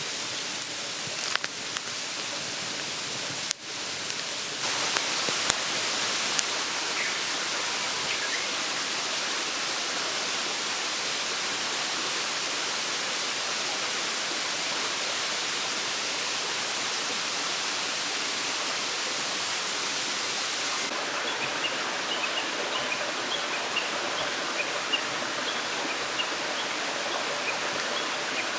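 Mountain stream babbling steadily, an even rush of flowing water that steps up a few seconds in after a brief break. Faint short high chirps sound over it in the last several seconds.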